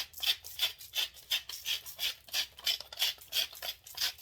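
Salt being sprinkled onto chicken in a steady rhythm of about three short rasping strokes a second.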